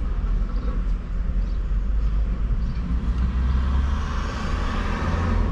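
Steady low rumble of road traffic, with a vehicle passing whose noise swells over the second half.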